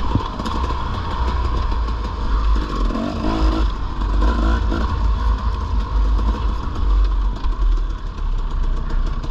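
Dirt bike engine running while riding, its loudness rising and falling with the throttle.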